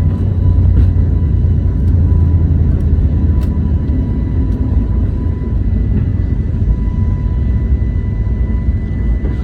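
Steady cabin noise of an Airbus A321neo in flight, heard from inside the cabin: an even, deep rumble of the CFM LEAP-1A engines and airflow.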